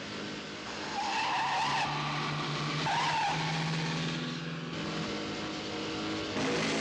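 Car engines running hard with tyres squealing, the squeals about a second in and again around three seconds in.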